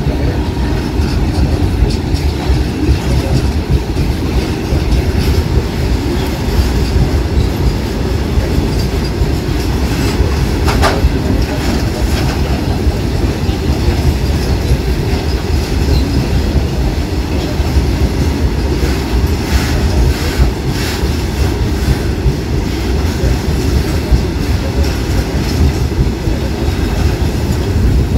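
Covered freight wagons of a passing train rolling by close up: a steady heavy rumble with wheels clattering over the rail joints. A brief high wheel squeal comes about eleven seconds in.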